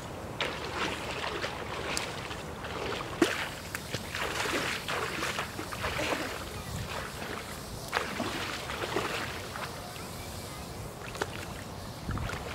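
River water splashing and sloshing in irregular bursts, as a person wades and bathes in it. The splashing is busiest in the first nine seconds and dies down near the end.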